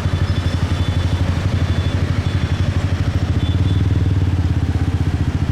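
Motorcycle engine running steadily at low speed, heard from on the bike, its exhaust pulses coming fast and even.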